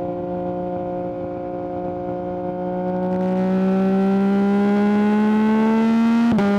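Yamaha MT-09 three-cylinder engine through an Akrapovic exhaust, pulling under throttle with the revs climbing steadily. Near the end a quickshifter upshift cuts it for an instant, and it carries on at lower revs.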